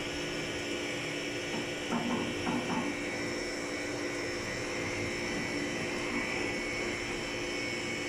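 Batch ice cream freezer running, a steady machine hum with several high whining tones held throughout. The squeal comes from the dasher turning in the empty, chilled barrel, which runs dry until the base gives it friction.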